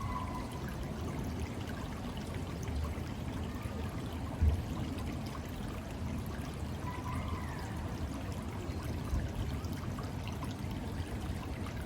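Steady running water from a park water feature, pouring and splashing continuously. A brief low thump stands out about four and a half seconds in.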